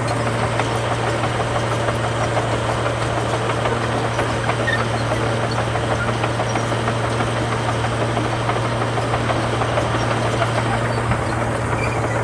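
Heavy diesel engine of earthmoving machinery running steadily at an even pitch, with a dense rattling clatter over it.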